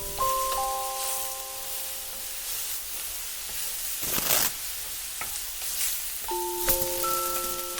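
Food sizzling in a frying pan: a steady hiss that swells briefly about four seconds in, with a few light clicks. Music-box notes ring at the start and again near the end.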